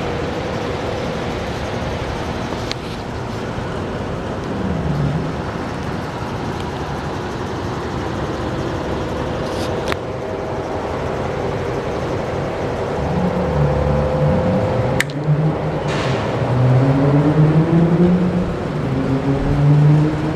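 Motorcycle engine, a Suzuki GSF1200S, running steadily with a few sharp clicks. In the last third its note rises and steps up in pitch several times, as if revved.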